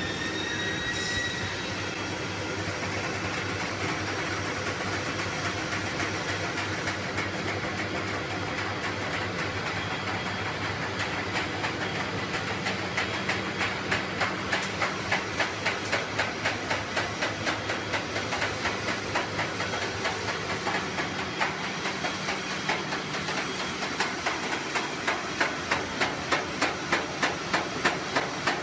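Forge-shop machinery running with a steady drone and hiss. From about halfway a power forging hammer strikes in quick even blows, about two a second, stops briefly, then starts again near the end.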